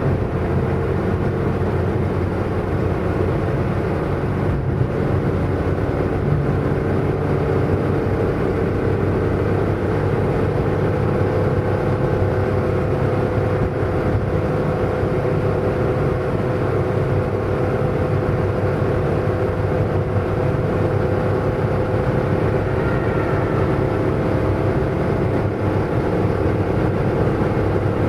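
Car driving at speed: the engine runs with a steady drone at an even pitch, under a constant rush of road and tyre noise.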